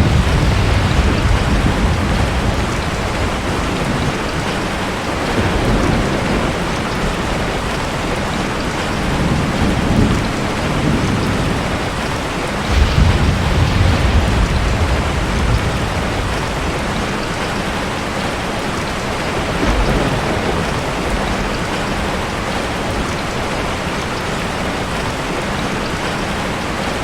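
Steady heavy rain hissing, with low rumbles of thunder rolling in several times; the loudest rumble comes about thirteen seconds in.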